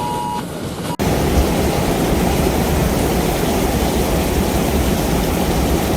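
Steady, loud rush of heavy rain and running floodwater, starting abruptly about a second in. Before it, a quieter rumble with a steady electronic beep that stops just before the rain starts.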